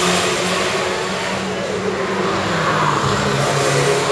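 Toyota Vitz race car engine running as the small hatchback is driven hard around a cone course; the engine note drops in pitch a little past halfway as it comes off the throttle.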